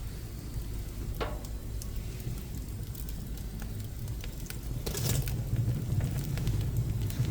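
Pine offcuts burning in a wood stove: a low rumble from the fire with scattered crackles and pops, the rumble growing louder about five seconds in.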